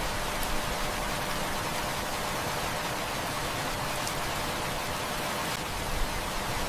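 Heavy rain falling in a steady, even hiss, with a few faint sharp clicks.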